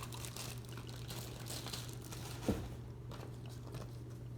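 Paper or plastic packaging crinkling as it is handled, over a steady low hum, with a single thump about two and a half seconds in.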